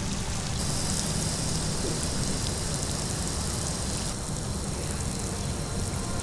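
La Joute fountain spraying water and mist: a steady, rain-like hiss of spray. The high part of the hiss steps up abruptly about half a second in and shifts again about four seconds in.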